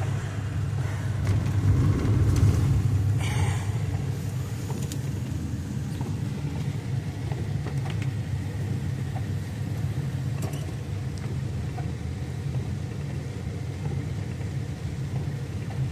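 Steady low rumble of a vehicle being driven, heard from on board, a little louder in the first few seconds.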